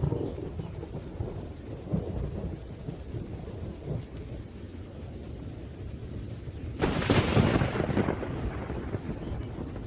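Thunderstorm: rain falling steadily under low rumbling thunder, with a sharp, louder thunderclap about seven seconds in that fades out over a second or two.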